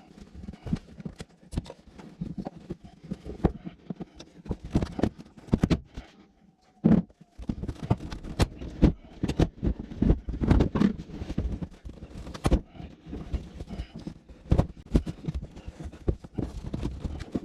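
Irregular run of knocks, clunks and scrapes from car carpet and interior pieces being pulled loose and handled as the interior is stripped out.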